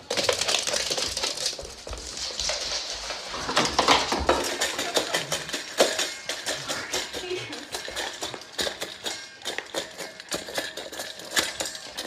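Many small, sharp clicks and clinks of hard objects knocking together, coming irregularly throughout.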